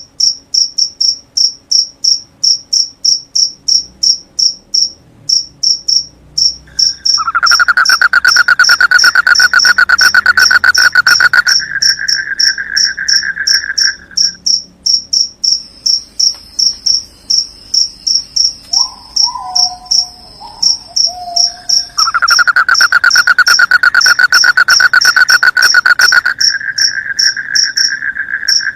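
Night field crickets chirping steadily, a high chirp about three times a second. Twice a lower, fast trill joins in for several seconds and becomes the loudest sound, and a short low gliding call sounds once in between.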